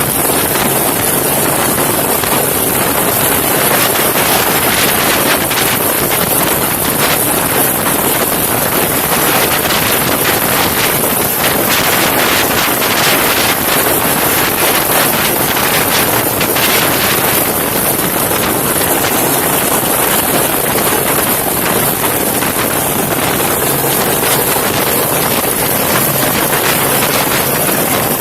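Helicopter running steadily, a constant loud rush of rotor and engine noise with wind buffeting the microphone.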